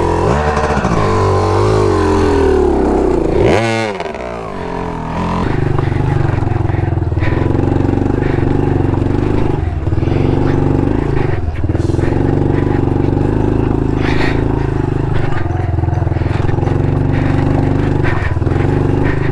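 Honda CRF110 pit bike's small single-cylinder four-stroke engine working hard under load on a steep climb. The revs fall and pick back up about four seconds in, then hold fairly steady with a few brief dips.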